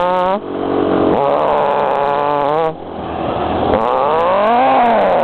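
A man imitating a sport motorcycle engine with his voice: a buzzing 'vroom' that rises and falls in pitch like revving through the gears, broken off and restarted a few times.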